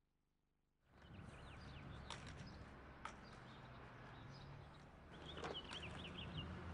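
Faint outdoor ambience that starts about a second in after silence: a steady low rumble with small birds chirping in quick runs of short falling notes, twice, and a couple of sharp clicks.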